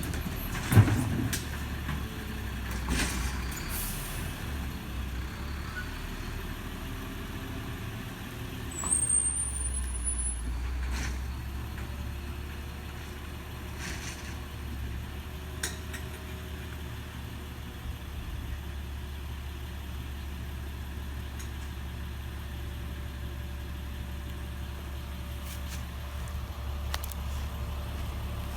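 Recycling truck's engine running steadily, with a sharp bang just under a second in and scattered clanks. A short rising high squeal comes about nine seconds in.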